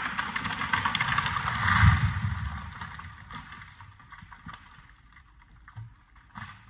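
A felled tree coming down: crackling and snapping, loudest with a deep thud about two seconds in, then fading away.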